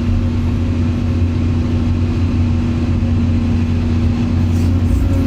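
A motor vehicle's engine running steadily: a constant low drone with a steady hum that neither rises nor falls.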